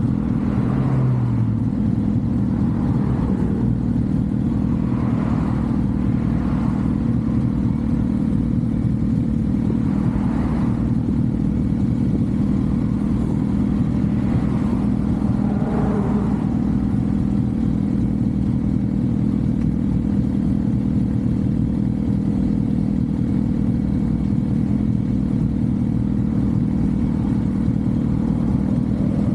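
Motorcycle cruising at a steady speed, its engine running at an even, unchanging pitch under a constant rush of wind and road noise.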